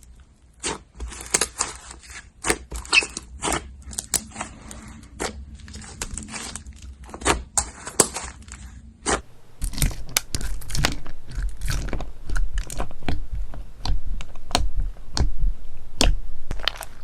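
Slime being pressed, squeezed and pulled by hand, giving a run of crisp crackles, pops and clicks. About nine and a half seconds in, a different slime takes over with denser, steadier crackling.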